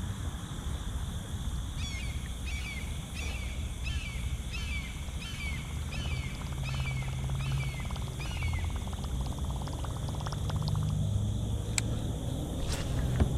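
A bird calling a series of about eleven short downward-slurred notes, evenly spaced, over a steady low rumble. Faint rapid ticking follows the calls, and there are two sharp clicks near the end.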